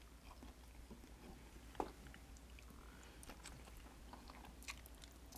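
Faint chewing and mouth sounds of a person eating, with scattered soft clicks and one sharper click about two seconds in.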